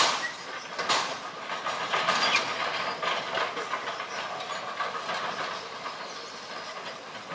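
Excavator at work: a steady mechanical clattering and grinding of metal, with three sharp clanks in the first two and a half seconds.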